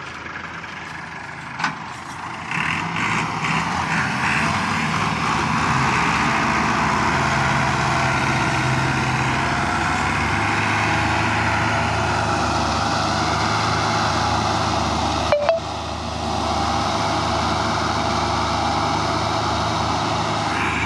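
Tractor diesel engines running hard under heavy load while pulling a loaded trolley, swelling louder a few seconds in and holding steady. A sharp double knock comes about fifteen seconds in.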